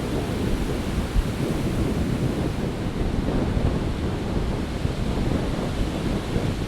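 Big winter storm surf breaking steadily, a continuous wash of ocean noise, with wind buffeting the microphone.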